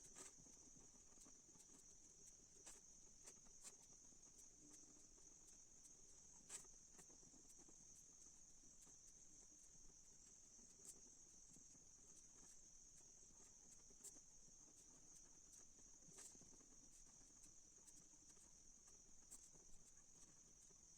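Near silence: faint room tone with a steady high-pitched hum and a few faint, scattered ticks.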